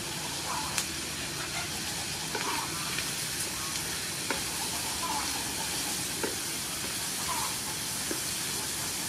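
Sea snail, carrot and fresh green peppercorns sizzling in hot oil in a frying pan while a wooden spatula stirs them, with a few short scrapes and taps of the spatula against the pan.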